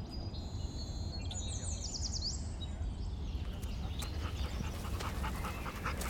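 Outdoor forest ambience: a steady low rumble, with a small bird's high, thin chirps and quick rising notes in the first two seconds or so.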